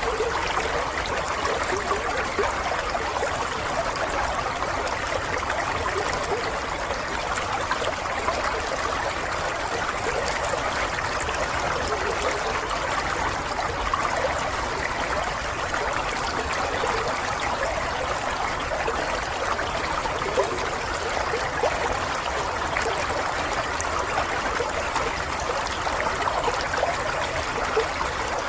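Water running and trickling steadily, like a small stream flowing over stones, with a continuous bubbling and splashing.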